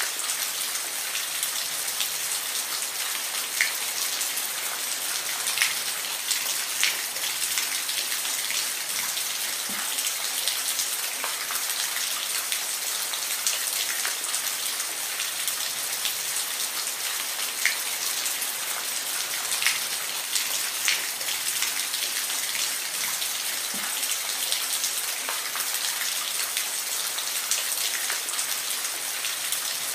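Steady rain, an even hiss with distinct single drops ticking sharply on a surface now and then.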